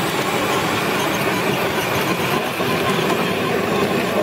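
Radio-controlled truck's motor and drivetrain running under load as it drags a weighted pulling sled, a steady mechanical rumble and rattle.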